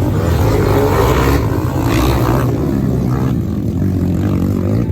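Motocross dirt bike engines running hard and revving, loud and continuous.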